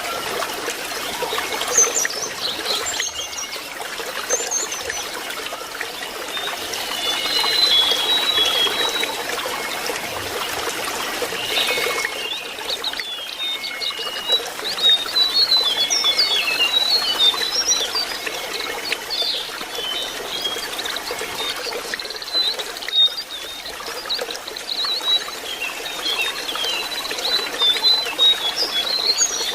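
Lesser shortwing song: strings of quick, high, jumbled twittering notes, over a steady trickle of running water.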